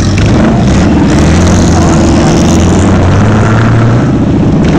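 Motorcycle engine running loud and steady, a continuous low drone with noise over it.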